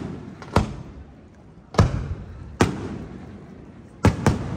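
Aerial firework shells bursting: five sharp bangs at irregular spacing of about a second, two in quick succession near the end, each trailing off in a rolling echo.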